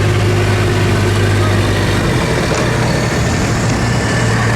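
Heavy truck engine running, a steady low drone whose tone shifts slightly about halfway through.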